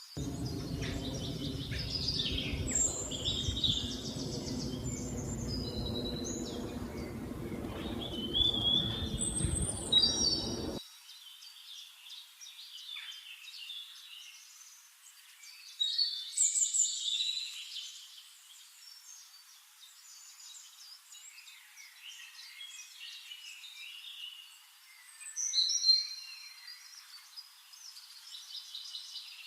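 Several songbirds chirping and singing in quick, overlapping high phrases and trills. For about the first eleven seconds a low steady hum runs beneath them, then cuts off suddenly, leaving only the birdsong.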